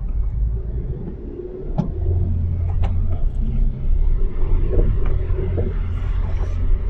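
Car driving, heard from inside the cabin: a steady low engine and road rumble, with a couple of short clicks about two and three seconds in.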